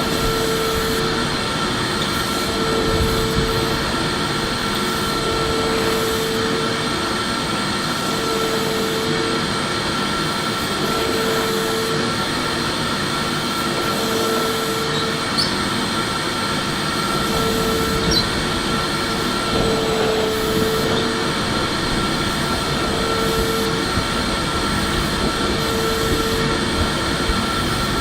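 Electric vacuum cleaner running steadily: a rushing air noise with a constant high motor whine, and a lower hum that swells and fades about every two and a half seconds.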